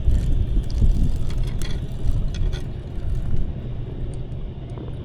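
Wind buffeting the microphone: an uneven low rumble with a few faint clicks.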